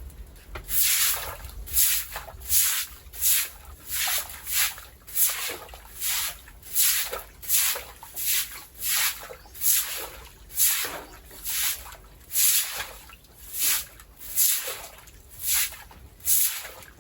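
Rhythmic swishing strokes of a broom scrubbing a pigpen floor, about one stroke a second.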